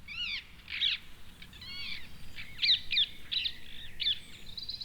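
Birds calling: a run of about a dozen short, sharp, high calls.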